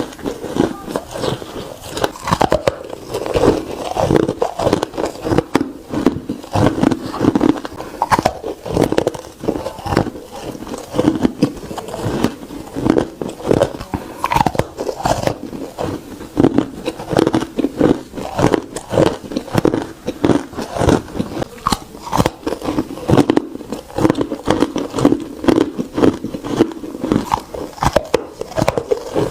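Ice being bitten and chewed: a quick, unbroken run of crisp crunches and cracks, several a second.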